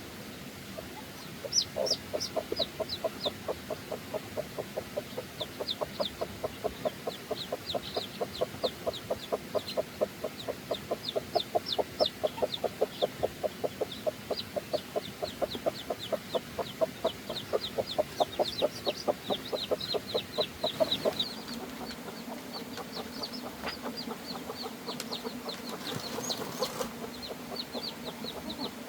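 Chickens clucking in a fast, even run of short calls, with high, short chirps over them. The clucking stops about 21 seconds in while the chirps go on.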